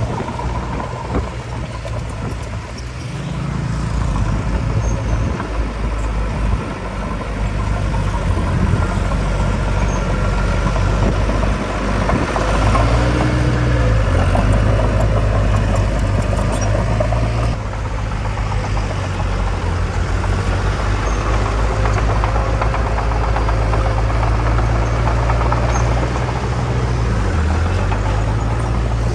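Diesel engines of heavy earthmoving machinery working: a low, steady engine note that rises and dips in pitch a couple of times as the load changes, with a mechanical rattle over it.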